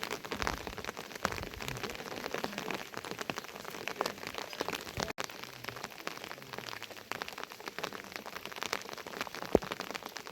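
Heavy monsoon rain: dense, irregular drops hitting a surface close by, with one louder drop near the end.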